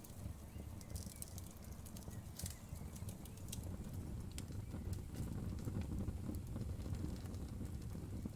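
Wood fire crackling, with scattered sharp pops and snaps over a steady low rumble of flames; the pops are thickest in the first few seconds.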